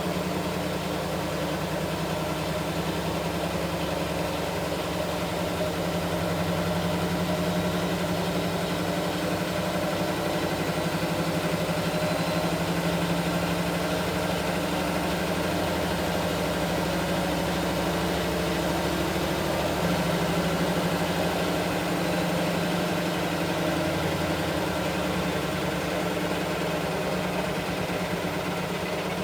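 Washing machine running with a steady hum.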